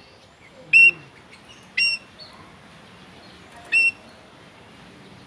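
Oriental magpie-robin (kacer) calling: three short, loud, sharp notes, the first two about a second apart and the third after a pause of about two seconds.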